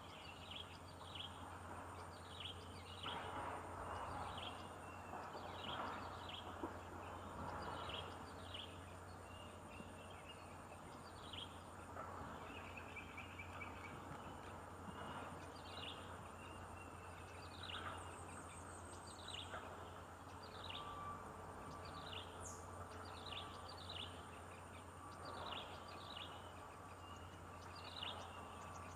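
Birds chirping: short, falling chirps repeated about once or twice a second, over a steady low hum.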